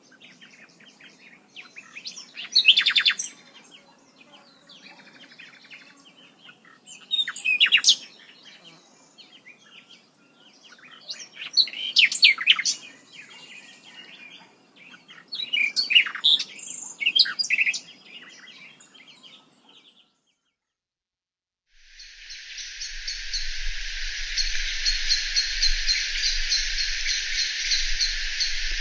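A bird sings short bursts of quick, high chirping notes every few seconds. After a brief break, a loud, steady, dense insect drone, like cicadas or crickets, takes over for the last several seconds.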